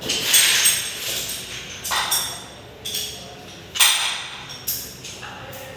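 Metal tools and engine parts clinking and knocking together: about six sharp metallic strikes, roughly one a second, each ringing briefly.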